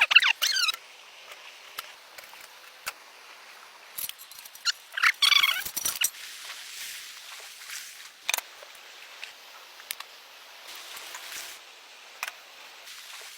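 Two short bursts of high, quickly rising and falling animal calls, one right at the start and one about five seconds in, with a few sharp clicks and light knocks scattered between.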